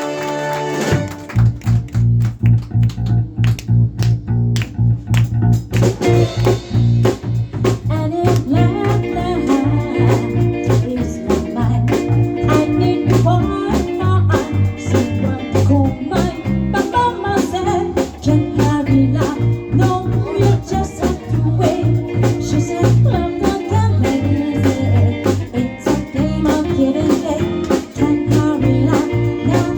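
Live band playing a slow blues-style number: a bass line and drums come in about a second in, with guitar joining over them a few seconds later.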